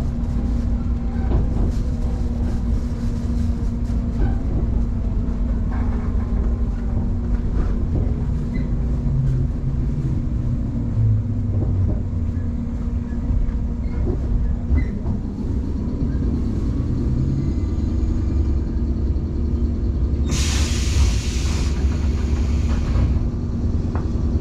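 Electric commuter train heard from inside, slowing into a station: a steady running rumble with low motor tones that shift as it slows. About twenty seconds in there is a loud burst of compressed-air hiss lasting about three seconds as the train comes to a stop.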